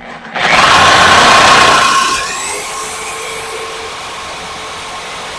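Power tool cutting through an exhaust pipe clamped in a vise. It starts suddenly and is loudest for the first couple of seconds, then settles into a steadier, quieter whine.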